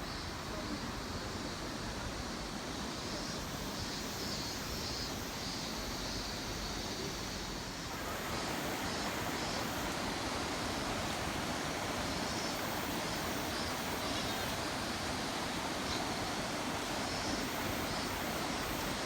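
Steady rushing of fast-flowing river water, stepping up louder and fuller about eight seconds in.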